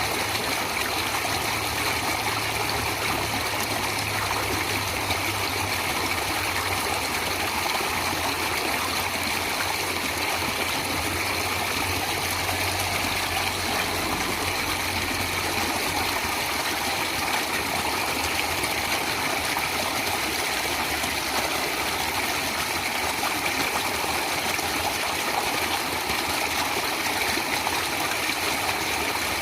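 Natural running water flowing steadily, an unbroken rushing sound with no changes or pauses.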